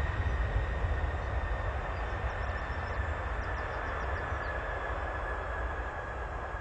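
Boeing 747 jet engines on approach, a steady roar with deep rumble and a high whine that drops slightly in pitch as the sound slowly fades.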